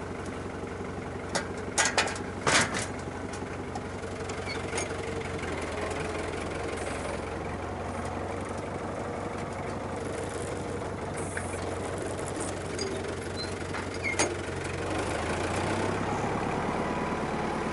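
Farm tractor's diesel engine running steadily, with a few sharp metallic clanks about two seconds in and another one near the end.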